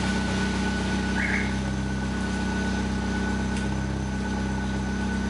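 Corsa B's exhaust, fitted with a glasspack and a Magnaflow performance muffler, idling steadily.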